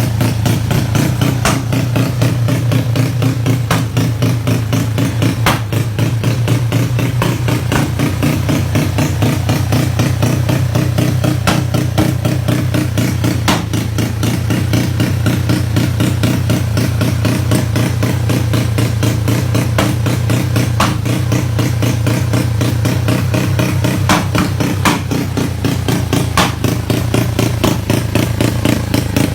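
Yamaha Mio scooter's single-cylinder four-stroke engine, bored up to 200cc with ported and polished head, idling steadily, with a few sharp clicks scattered through.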